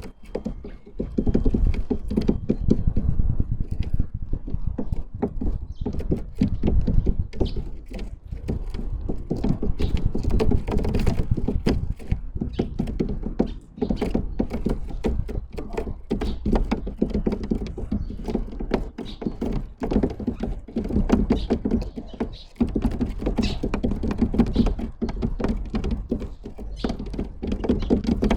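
Birds at a wooden feeder close to the microphone, hopping and pecking: a rapid, irregular run of taps, knocks and thumps on wood.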